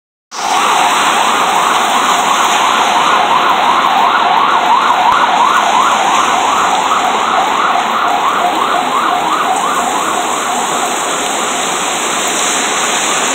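Heavy rain pouring down on a city street, with an emergency-vehicle siren in a fast rising-and-falling yelp, about three cycles a second, that fades away about ten seconds in.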